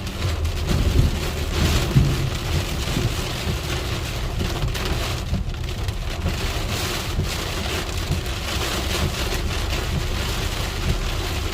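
Heavy rain drumming steadily on a car's roof and windows, heard from inside the cabin during a thunderstorm downpour.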